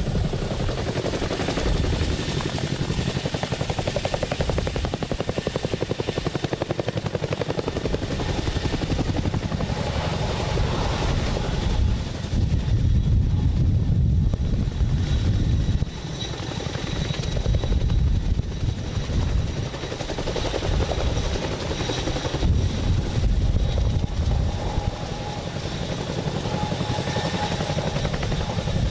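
Chinook tandem-rotor helicopter with GE T408 turboshaft engines running: a rapid, steady beat of the rotor blades under a high, steady turbine whine. It gets louder about twelve seconds in and drops back about four seconds later.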